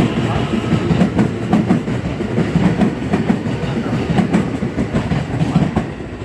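An electric commuter train rolling through a station, its wheels clacking over rail joints amid steady running noise.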